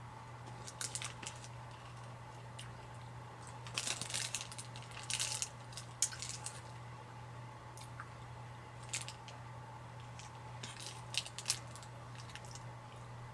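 Scattered crunches and crackles of a crisp sesame seed brittle being bitten and chewed, in irregular clusters, over a steady low hum.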